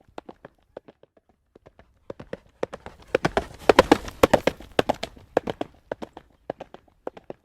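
Horse's hooves trotting on a paved road, a run of sharp clip-clops. The strikes grow louder and closer together through the middle, then thin out again near the end.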